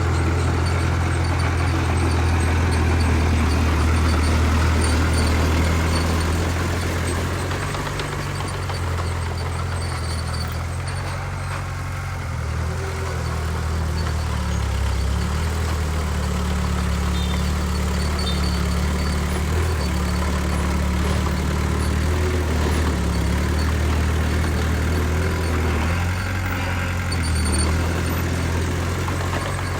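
Bulldozer's heavy diesel engine running under changing load, its low drone shifting in pitch and strength several times as it works.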